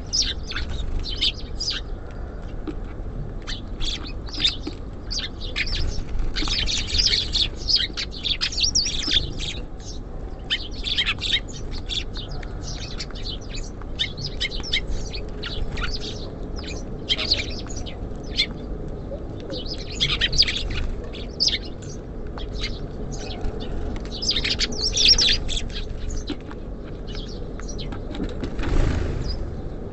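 Small songbirds chirping at a feeder, many short chirps coming in busy clusters over a steady low background hum. A brief whooshing rush sounds near the end.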